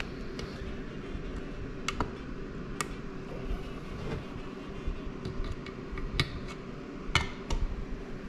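Scattered sharp metal clicks and taps, about five in all, as a drum brake's hold-down pin, spring and retaining clip are pressed together and seated on the shoe. A steady low hum runs underneath.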